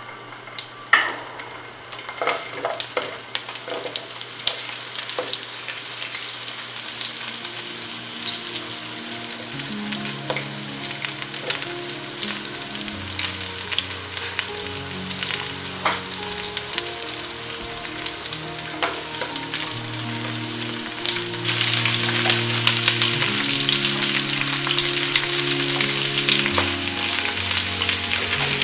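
Garlic bulbs and carrot pieces frying in oil and butter in a steel pot on medium heat: a steady sizzle with scattered crackles and clunks as vegetables are dropped in. The sizzle gets louder about three-quarters of the way through as more vegetables go into the hot fat.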